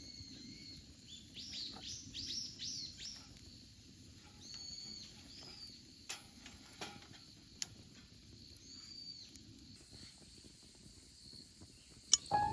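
Songbirds chirping in clusters of short, high, curving calls over faint low outdoor background noise, with a few sharp clicks about halfway through and near the end.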